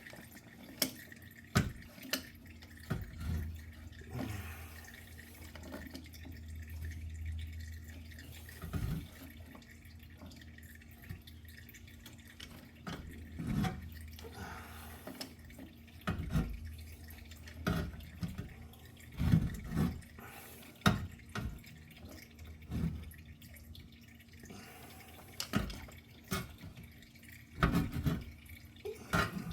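Engine oil draining and dripping into a drain pan, with irregular drips and knocks every second or two.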